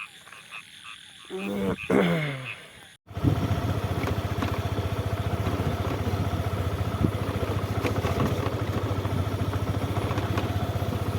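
Faint frogs croaking after rain. About three seconds in, the sound switches to a two-wheeler's engine running steadily while riding.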